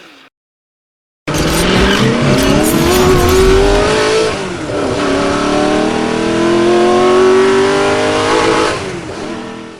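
A car engine accelerating hard, starting suddenly after a second of silence. Its pitch rises, drops back about three seconds into the sound as if at a gear change, then climbs again before fading near the end.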